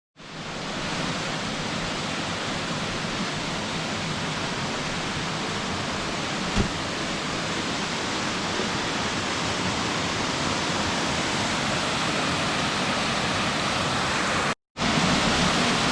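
Small waterfall cascade running with a steady rush of falling water. It fades in at the start, with one short knock about six and a half seconds in and a brief cut-out near the end.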